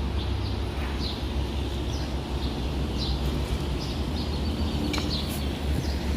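A bird chirping repeatedly, short high chirps about twice a second, over a steady low rumble.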